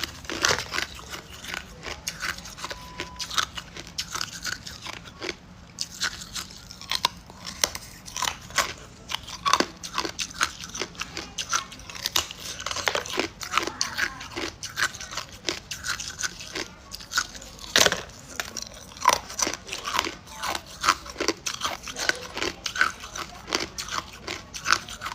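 Hard ice cubes being bitten and chewed close to the mouth, a rapid, irregular run of sharp cracks and crunches.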